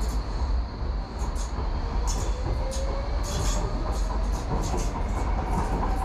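Docklands Light Railway train running along the track, heard from inside the car: a steady low rumble with frequent rattling clicks from the wheels and track. From about halfway through, a faint whine rises slowly in pitch.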